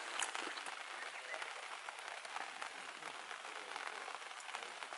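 Food sizzling on a hot outdoor iron griddle: a steady hiss with scattered small crackles and pops.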